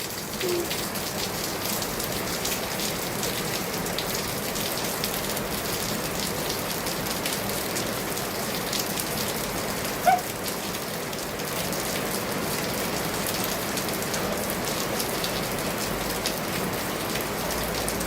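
Steady rain falling, with many separate drops ticking on a surface close by. About halfway through there is one brief, sharp sound that stands out above the rain.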